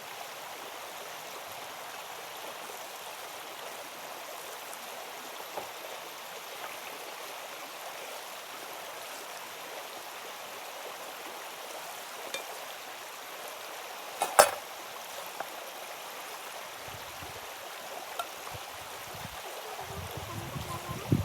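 Steady rushing of a stream, with one sharp knock about two-thirds of the way through and some low bumps near the end.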